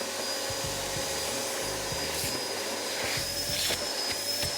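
A small electric blower-type motor running steadily, a constant rushing air noise with a thin high whine over a lower hum.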